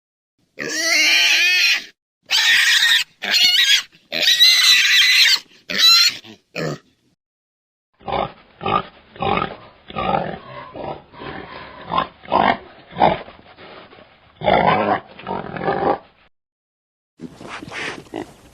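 Pigs: a run of loud, high-pitched squeals in the first seven seconds, then a stretch of short grunts, roughly two a second, in a duller recording.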